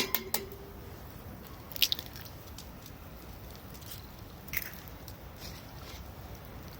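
Eggs being cracked into a hot pan: a few sharp cracks and taps of eggshell, spread out over several seconds, over a steady faint hiss.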